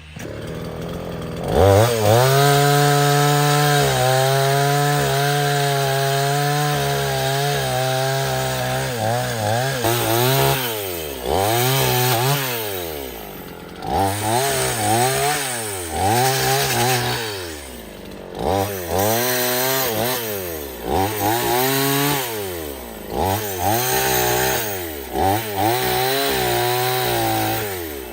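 Chainsaw engine revving up sharply about a second and a half in and holding high revs for several seconds. Through the second half it is throttled up and let down again and again.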